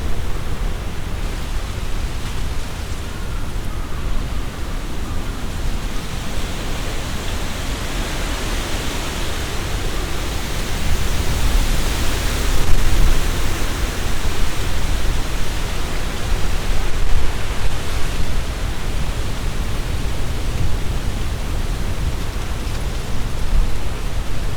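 Strong, gusty wind blowing through trees, their leaves rustling, with a deep rumble of wind underneath. A gust builds about eight seconds in, peaks around twelve to thirteen seconds, then eases.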